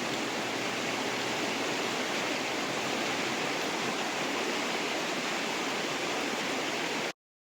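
Fast river water rushing steadily, then cutting off abruptly to dead silence near the end.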